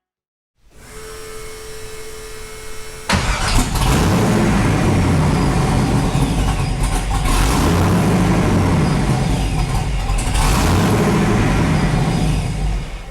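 TorqStorm-supercharged Nissan 240SX engine being started: a steady lower sound with a single held tone, then about three seconds in the engine suddenly runs loud and stays loud, swelling twice as it is revved, and drops off near the end. The supercharger's whine is likened to a jet plane.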